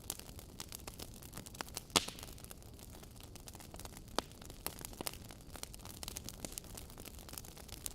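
Wood fire burning in a fireplace, crackling steadily over a low hiss, with sharp pops from the logs, the loudest about two seconds in and another about four seconds in.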